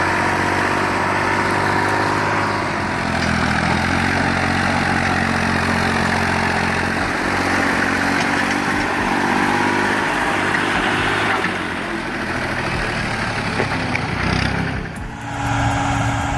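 Tractor engine running steadily with a broad, noisy hiss over it. The pitch shifts a little now and then, and the sound changes abruptly near the end.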